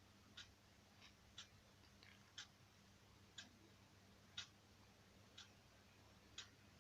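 Clock ticking faintly once a second, over a low steady hum of room tone.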